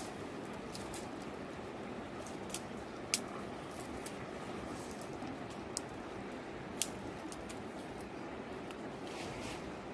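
River water rushing steadily, with a few scattered sharp clicks and ticks, the loudest about three seconds in and near seven seconds.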